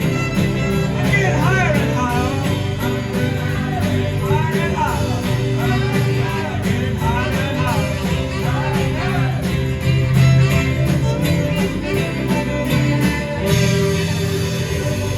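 Live rock band playing loud, with a strong bass line, a lead melody whose notes bend and waver, and a steady high tick of a hi-hat or shaker on the beat that stops near the end.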